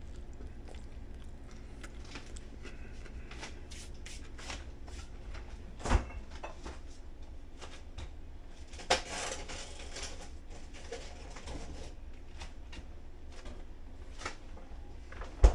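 Light handling sounds on a kitchen counter: scattered clicks and rustling, a short rustle about nine seconds in, and two sharp knocks, one about six seconds in and one at the end. A low steady hum underneath stops at the first knock.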